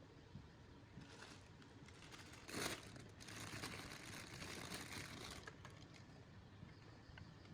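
Faint rustling and crinkling, loudest in a short burst about two and a half seconds in, then a softer stretch of rustling.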